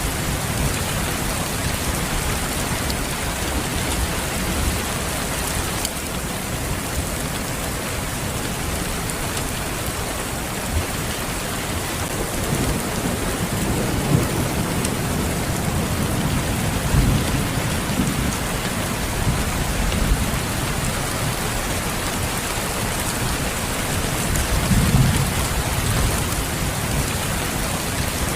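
Steady rain falling in a constant hiss. Low rumbles of thunder swell up a few times, mostly in the middle and again near the end.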